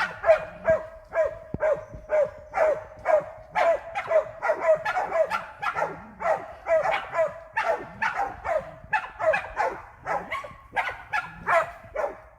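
Pig-hunting bailing dogs barking repeatedly and without a break, about two to three barks a second, the baying of dogs holding a feral pig at bay. A steady drone runs beneath the barking.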